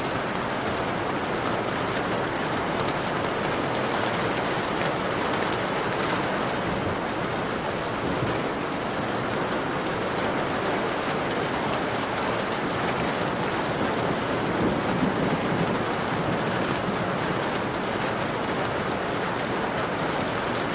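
Steady rain falling on a window, a dense hiss of drops with fine ticks of single drops hitting the glass.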